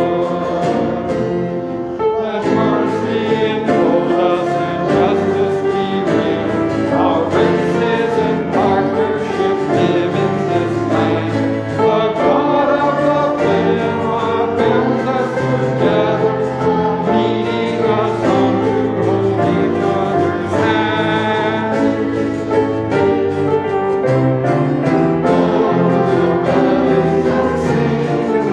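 A choir singing a hymn with instrumental accompaniment, the closing song of the worship service.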